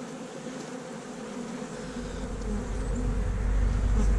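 Honey bees buzzing in a steady hum around an opened hive, the colony stirred up by the inspection. A low rumble builds underneath in the second half.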